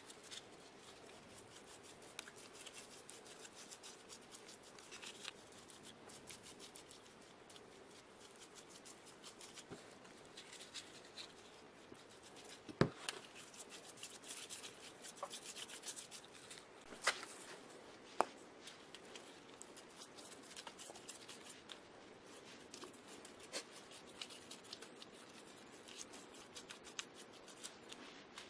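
Faint rubbing and scratching with scattered small ticks, broken by a few sharp clicks: one loud click about halfway through and two more a few seconds later.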